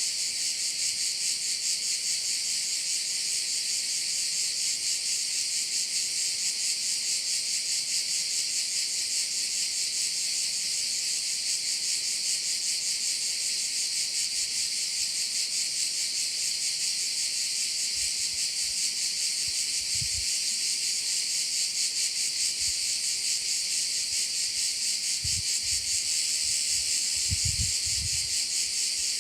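Dense chorus of singing insects, a steady high-pitched buzz made of very rapid pulses. A few faint low thumps come in the last ten seconds.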